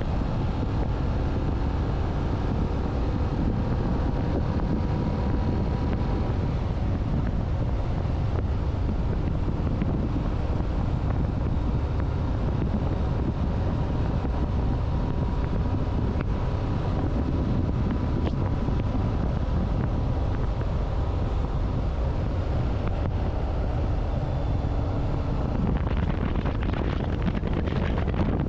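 Wind rushing over the microphone of a moving motorcycle, over the steady hum of its engine running at an even pace. Near the end the hiss grows a little.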